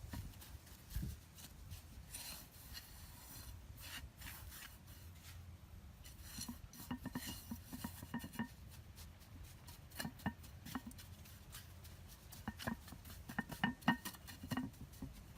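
Hard objects being handled: scattered taps and clinks with short stretches of scraping and rubbing, busiest in clusters around seven seconds in and near the end.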